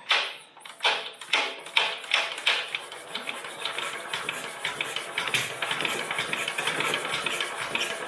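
Vintage Petter single-cylinder stationary engine firing: a few loud, uneven beats in the first couple of seconds, then picking up into rapid, steady running with a busy mechanical clatter.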